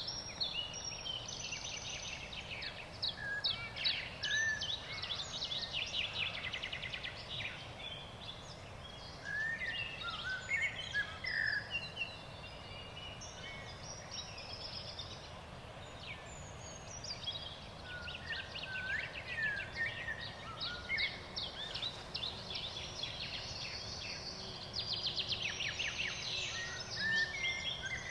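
Several songbirds singing at once, overlapping chirps and rapid trills coming one after another, over a steady low background hiss.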